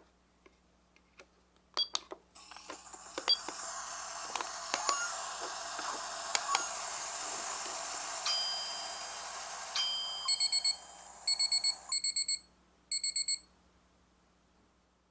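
Miniature toy microwave gadget: a few small plastic clicks, then its speaker plays a steady microwave-running hum for about ten seconds, followed by three groups of short electronic beeps that signal the end of the cycle.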